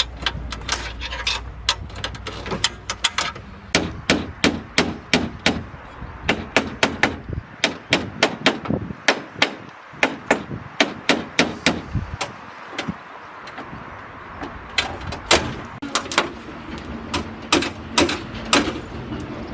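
Metal being hammered: a run of sharp ringing blows, about two to three a second through the middle, then slower and more spaced out near the end.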